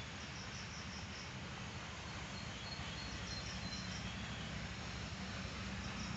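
Insects chirping outdoors in three short trills of rapid, high-pitched pulses: one at the start, one about three seconds in and one near the end. A steady low rumble and a soft hiss run underneath.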